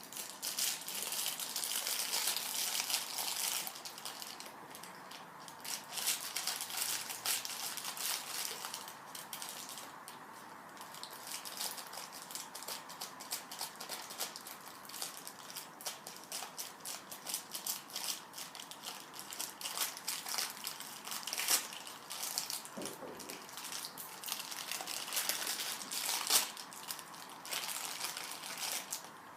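Small plastic toy packet being crinkled and torn open by hand, a continuous crackling rustle with scattered sharper crackles.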